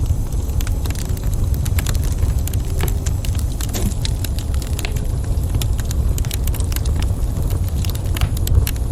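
Wood fire crackling in a fireplace: many small sharp pops and snaps at irregular intervals over a steady low rumble.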